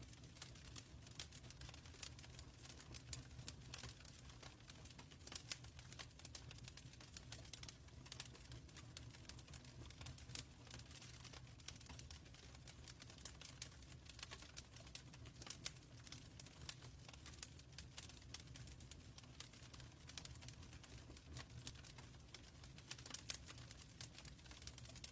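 Wood fire in a fireplace crackling faintly: frequent small irregular pops and ticks over a steady low rumble.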